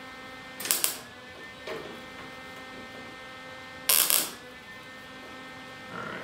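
Two short bursts of welding on the sheet-steel trunk lid, tack welds about a second in and about four seconds in, the second the louder, with a steady electrical hum under them: a filler plate being tacked into the trunk lock cylinder hole.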